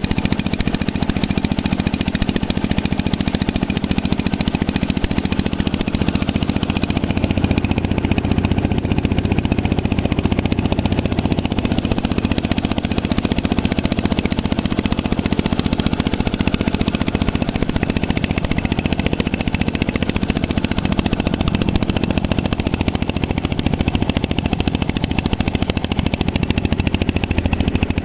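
Boat engine running steadily, a loud, rapid, even chugging that stays unchanged throughout.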